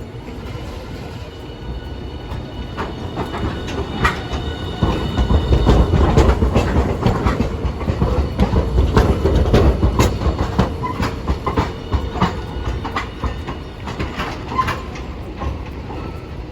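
Hiroshima Electric Railway streetcar running on street track, a low rumble with wheels clacking over rail joints and points. It grows louder about four seconds in, is loudest in the middle, then eases off.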